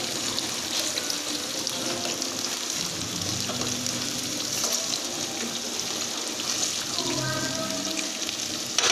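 Batter-coated chicken pieces deep-frying in hot oil in a steel pot, a steady sizzle, while a spoon turns the pieces over.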